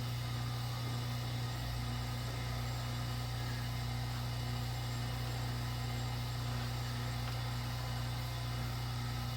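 A steady low hum with an even hiss over it, unchanging throughout, with no distinct clicks or knocks.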